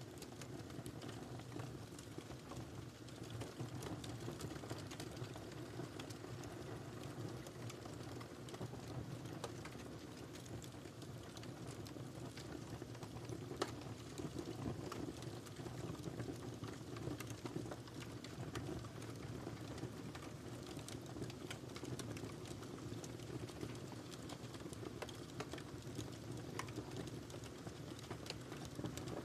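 Wood fire crackling in a fireplace: a steady soft hiss with irregular small pops and snaps throughout, one sharper pop about halfway through.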